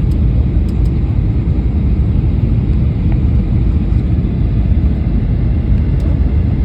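Steady low rumble of a passenger airliner's engines and airflow heard from inside the cabin while descending toward landing.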